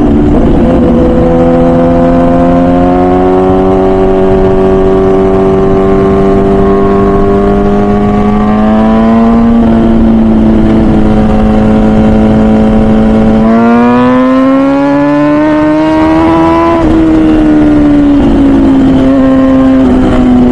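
MV Agusta Brutale 1000RR Nurburgring's 998cc inline-four running through its full titanium Arrow exhaust under way. The engine note climbs slowly and holds, rises steeply about two-thirds of the way in, then drops back and runs steady.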